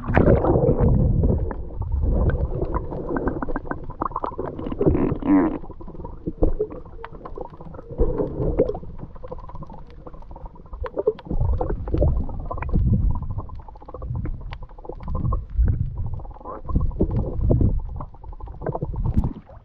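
Muffled water sloshing and gurgling with uneven low rumbles and small clicks, as heard from a camera dipped under the surface beside a kayak.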